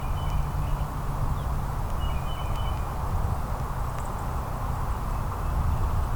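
Two short bird calls about two seconds apart, each a few brief level notes, over a steady low outdoor rumble.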